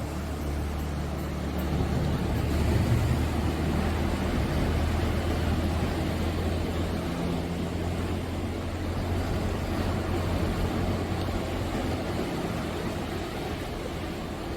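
Ocean waves breaking on the shore: a deep, continuous rumble and wash that swells about two seconds in and slowly eases.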